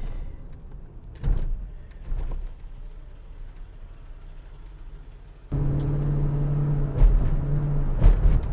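2002 Ford F150 V8 pickup heard from inside the cab while driving: low road and engine noise with a few light knocks. About five and a half seconds in, the engine note suddenly gets louder and settles into a steady, even hum, the truck running smoothly with its misfire cured.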